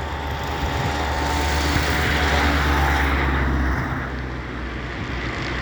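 Engine noise of a passing motor vehicle, a low steady hum that swells to its loudest about two to three seconds in and then fades.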